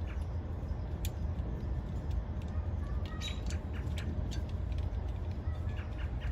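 Light clicks and ticks of electrical wires and connectors being handled and fitted into a holder, with a few short faint squeaks, over a steady low rumble.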